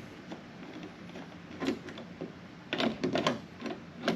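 Scattered light clicks and knocks of a side-view mirror and its bracket being handled and pressed against a car door, with a short cluster of louder knocks about three seconds in.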